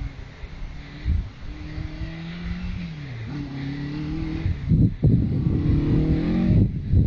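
Mark 2 Ford Escort rally car's engine revving hard through the gears, pitch climbing and then dropping at each change. It grows louder about two-thirds in as the car comes closer.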